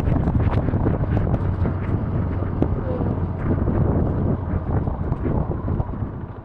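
Wind buffeting the microphone over a low, steady hum, with many small ticks scattered through it. The noise eases a little near the end.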